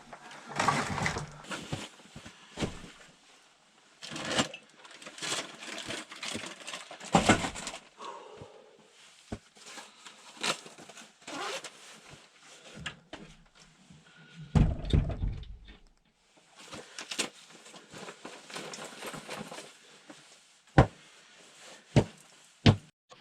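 Irregular crunches, knocks and thuds of hands-on work, with a heavy low thud about fifteen seconds in and a few sharp knocks near the end.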